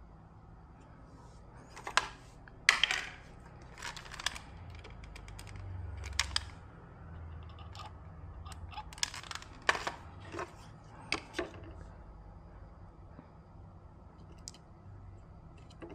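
Irregular sharp clicks and light clattering of small hard objects being handled and set down, about a dozen in all, the loudest two about two seconds in, over a faint low hum.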